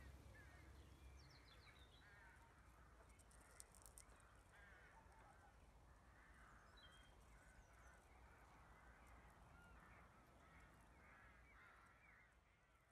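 Near silence with faint distant bird calls: many short chirping calls throughout, fading out near the end.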